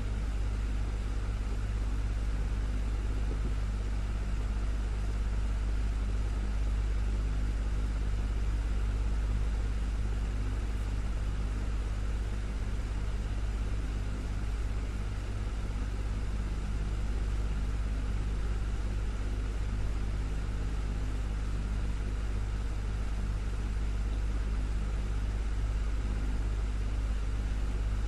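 Desktop fan running steadily: a deep, even hum under a constant rush of air.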